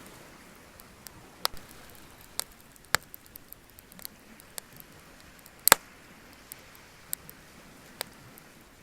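Wood bonfire crackling: irregular sharp pops and snaps over a soft steady hiss, the loudest pop a little past halfway.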